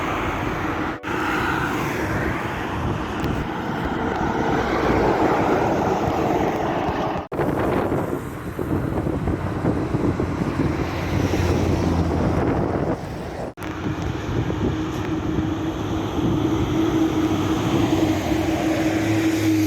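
Road vehicles passing, a steady engine and tyre noise, in several clips joined by sudden cuts.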